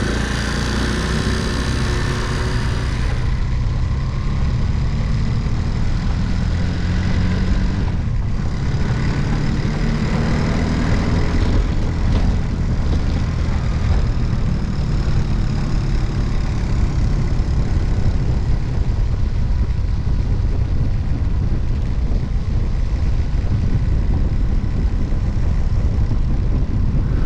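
Honda C90 step-through moped's small single-cylinder four-stroke engine running steadily while riding along, with wind rushing over the microphone.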